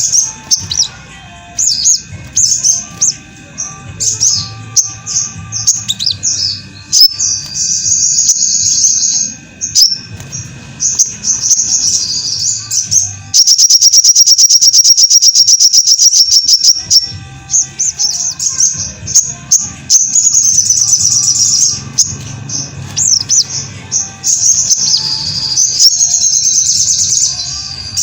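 Sogok ontong (sogon, little spiderhunter) singing: quick high chirps and warbled phrases, with one loud, rapid trill of evenly repeated notes lasting about four seconds around the middle.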